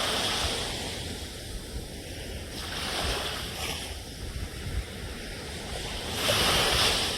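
Ocean surf: waves washing in over a steady hiss, surging about every three seconds, with the loudest surge near the end.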